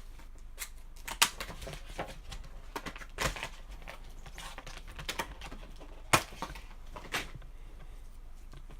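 Scattered clicks and knocks of computer hardware being handled and fitted into a PC case, with the loudest snaps about a second, three seconds and six seconds in.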